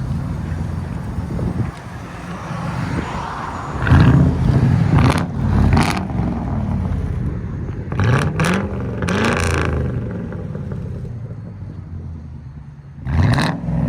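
Lincoln Town Car's 4.6L V8 through true dual straight pipes, with no mufflers, idling and being revved in several blips, the pitch sweeping up with each one.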